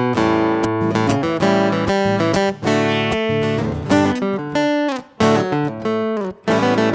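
Solo acoustic guitar playing an instrumental break between verses, plucked notes mixed with strummed chords.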